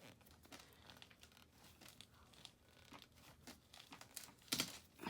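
Faint scattered clicks and rustling of hands and tools working on dirt bike parts, with a short louder clatter about four and a half seconds in.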